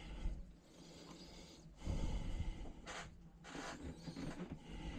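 A person breathing hard close to the microphone, a few separate breaths.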